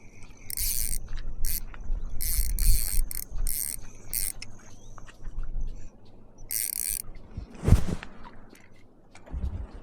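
Cheap fishing reel cranked in several short stretches of whirring, reeling in line. One loud knock comes near the end.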